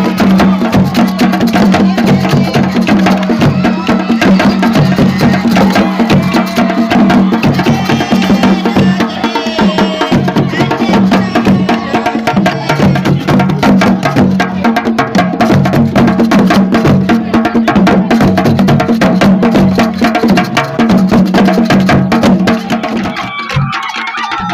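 Loud music of fast, dense drumming with voices over it. It turns quieter shortly before the end.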